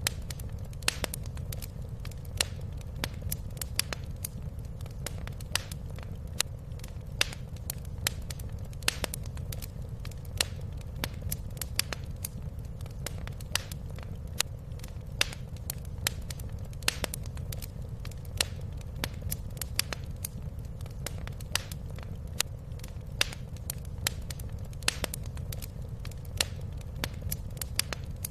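Wood fire crackling in a fireplace: irregular sharp pops and snaps, a couple a second, over a steady low rumble of the burning fire.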